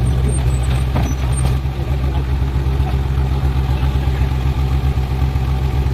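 Heavy vehicle's diesel engine running steadily at a low, even rumble, with a few faint clicks about a second in.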